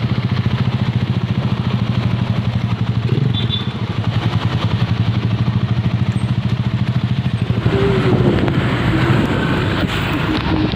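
A vehicle engine running at a steady speed. A little over two-thirds of the way through, the even engine tone drops away and a noisier rush with a wavering tone takes over.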